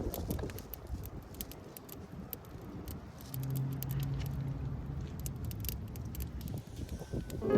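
Scattered light clicks and rattles over a low rumble, with a faint low hum about halfway through.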